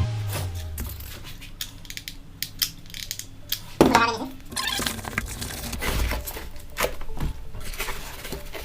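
Scattered small clicks and knocks of hard model parts being handled and set down on a work surface, with one louder, short, pitched sound a little under four seconds in.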